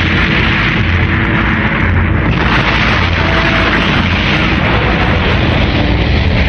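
Animated-series explosion sound effect: a continuous loud blast-and-rumble noise.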